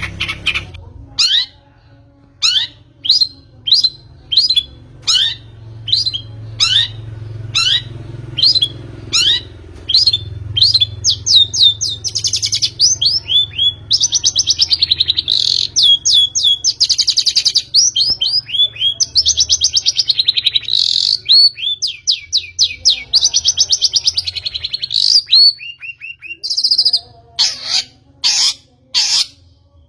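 Long-tailed shrike (pentet) singing: a run of short, sharp notes falling in pitch, about two a second. These give way after about ten seconds to a faster, scratchy chattering song with harsh, raspy stretches.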